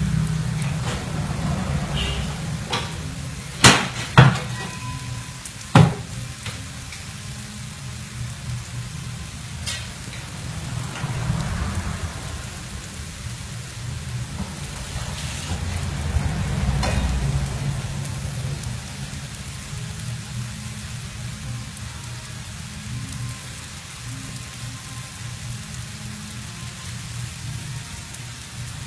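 Shredded sweet potato sizzling in hot oil in a nonstick frying pan, a steady hiss over a low rumble, left frying while the underside sets. Three sharp knocks stand out about four to six seconds in.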